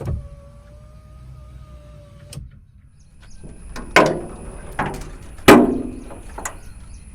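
Ford Ikon power-window motor in a Hindustan Ambassador's door running steadily for about two and a half seconds, stopping with a click. Four loud thumps follow, the loudest about five and a half seconds in.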